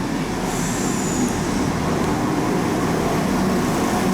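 A passenger train running through the station, a steady rumble that slowly grows louder. A faint high squeal is heard briefly about half a second in.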